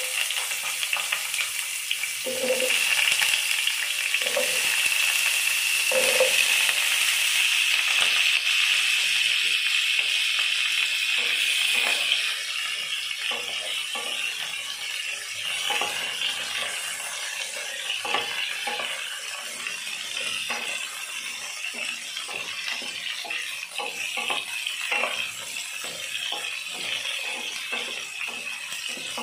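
Pointed gourd and potato pieces sizzling in hot oil in a kadai, the sizzle starting suddenly as they go in and loudest for the first dozen seconds before easing a little. A wooden spatula stirring them gives repeated short scrapes and knocks against the pan.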